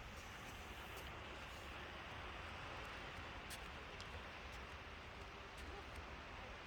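Faint, steady seaside ambience: an even hiss with a low rumble beneath and a few faint ticks.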